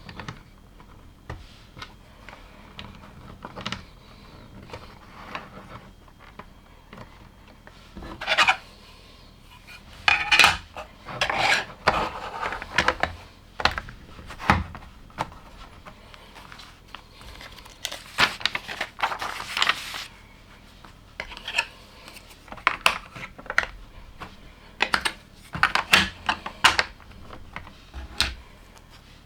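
Plastic LEGO bricks being handled and snapped together: scattered sharp clicks, with several louder bursts of clattering as loose pieces are rummaged and rattled.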